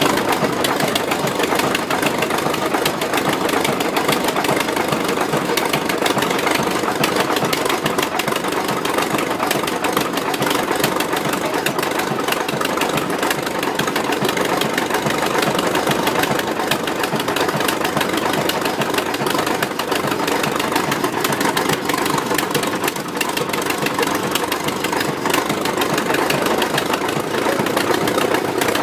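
Tractor engine running steadily at a constant speed, with a rapid, even beat.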